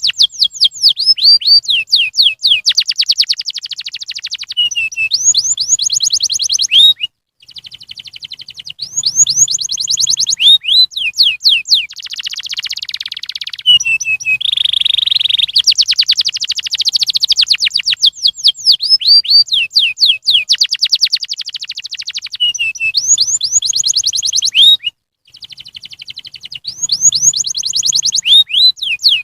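Domestic canary singing: fast trills of rapidly repeated notes and quick sweeping notes, loud and high, broken twice by a brief silence.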